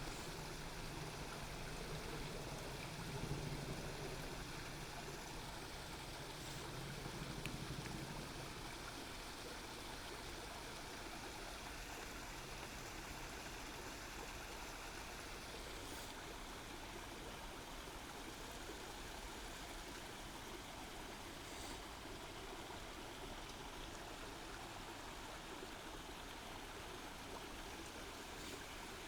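Waterfall: water falling and splashing in a steady stream. A low hum sits under the water for the first eight seconds or so, then fades.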